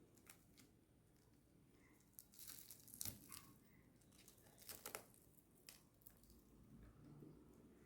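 Faint crackling of a crisp ghee roast dosa being torn apart by hand, in a few short bursts of sharp crackles.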